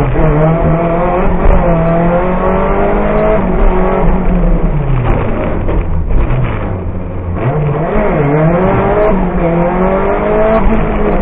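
Lancia Delta Evo rally car's engine heard from inside the cockpit, revving up hard under acceleration, then easing off with the pitch falling a little past halfway. It pulls up through the revs again and drops once more near the end.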